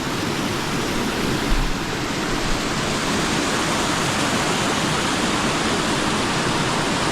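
Steady rush of water tumbling over a small cascade of rocky rapids, with a brief low bump about one and a half seconds in.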